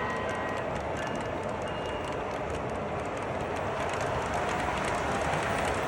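Train running steadily: a continuous rolling noise, with a faint high squeal about two seconds in.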